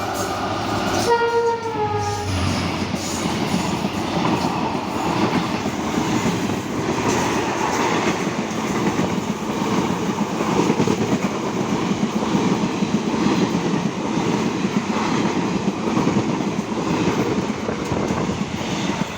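A WDP4D diesel locomotive sounds a short horn blast about a second in, its pitch dropping slightly at the end as it passes. Then the express train's coaches rush past with steady, loud wheel-on-rail noise and rattle.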